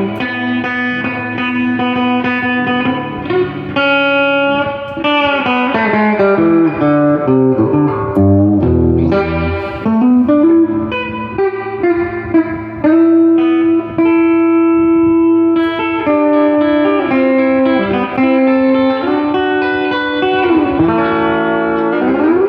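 Electric guitar played through a 1968 Fender Super Reverb tube amp: a continuous run of single-note lines and chords, with bent and sliding notes.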